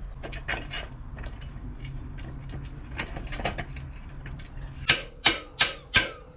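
Metal parts and tools clinking and knocking as a motorbike's rear-end parts are worked into place, ending in four sharp knocks near the end.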